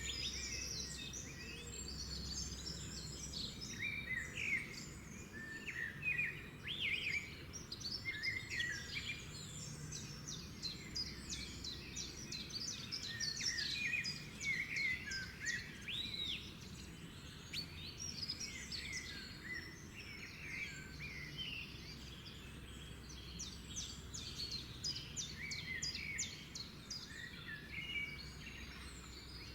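Several songbirds singing and chirping together, a continuous dawn-chorus-like mix of short calls and trills, over a faint steady low background rumble.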